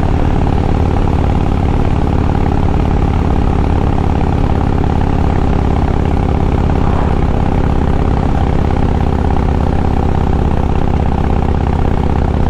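Harley-Davidson Road King's V-twin engine running steadily under load in sixth gear, climbing a hill, heard from the rider's seat.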